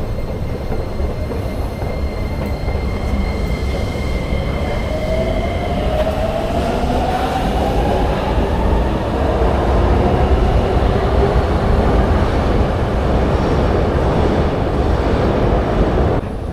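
Subway train pulling out of an underground station: a low rumble, with the electric motors' whine rising in pitch from about five seconds in as the train gathers speed. A thin high tone runs along with it and stops about six seconds in.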